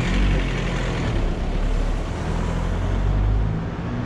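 Engine of a heavy road vehicle running close by in street traffic, a strong low rumble that eases off about three and a half seconds in, over general road noise.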